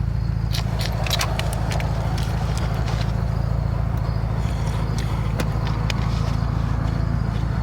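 Ford Mustang's engine idling steadily, a low even hum, with a few light clicks over it.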